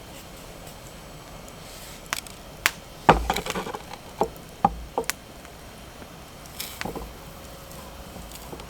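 Irregular sharp knocks and clicks of hard objects being handled, clustered about two to five seconds in, with a couple more near the end.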